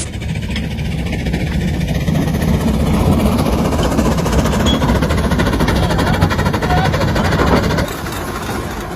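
1904 Best 110-horsepower two-cylinder steam traction engine running with a steady low throb. It becomes quieter about eight seconds in.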